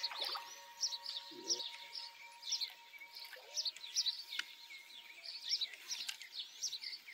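Birds chirping, a dense chorus of short high chirps several times a second.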